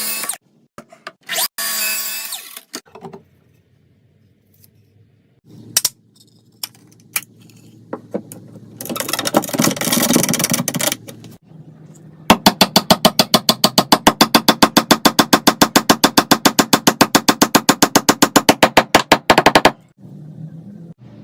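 Power tool work on wood: short bursts of cutting or sanding, then a longer loud burst, then a fast, even run of sharp strokes, about eight a second, lasting some seven seconds.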